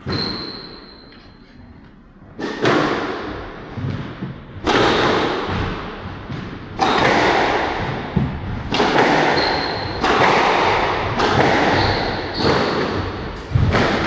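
A squash rally: the ball struck by rackets and cracking off the court walls about every one to two seconds, each hit echoing in the hall, with brief high squeaks of shoes on the court floor.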